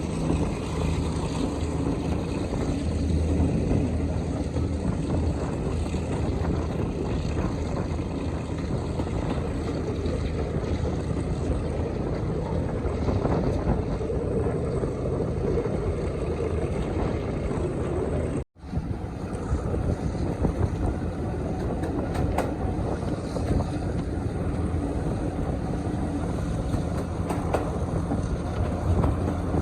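Diesel locomotive engine running steadily under power, a continuous low mechanical drone. The sound cuts out for an instant about two-thirds of the way through, then carries on as before.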